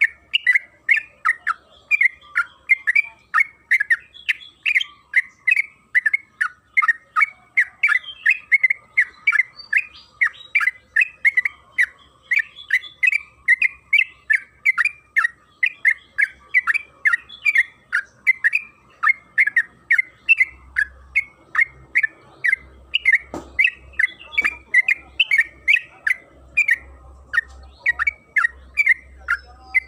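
Yellow-vented bulbul (trucukan) singing a long, unbroken run of short chirping notes, about three a second. A single low thump comes about two-thirds of the way through.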